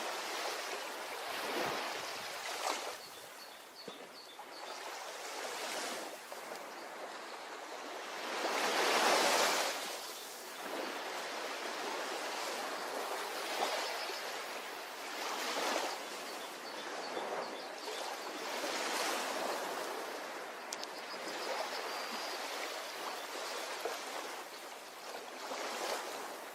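Ocean waves washing onto a shore: a steady rush of surf that swells and falls back every few seconds, with the largest wave breaking about nine seconds in.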